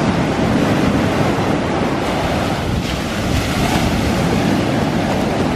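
Ocean surf washing onto the shore, with wind buffeting the microphone in a heavy low rumble.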